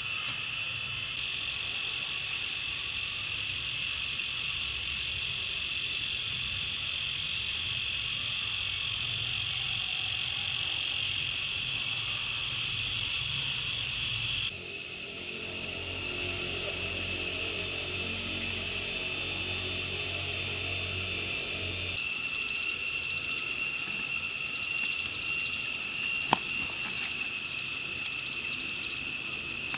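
Steady outdoor insect chorus, a continuous high buzzing drone. The mix changes abruptly twice, and there is a single sharp click later on.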